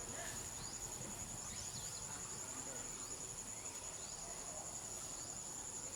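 Insects trilling steadily in a high, finely pulsing tone, with a fainter, higher tone above it.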